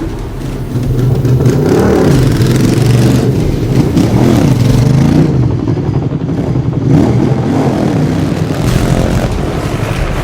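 Royal Enfield Interceptor 650's parallel-twin engine running loudly, its revs rising and falling again and again.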